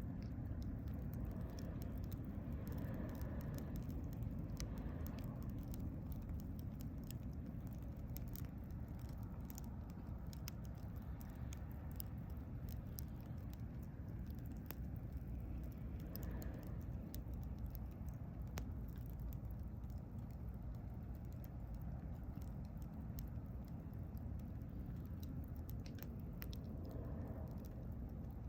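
Wood fire crackling: irregular sharp pops and snaps scattered throughout, over a steady low rumble.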